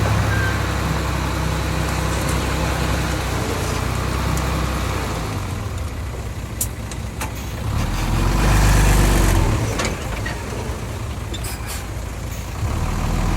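Heavy diesel engine of earthmoving machinery running steadily, swelling louder for a second or two about eight seconds in, with a few sharp metallic clicks.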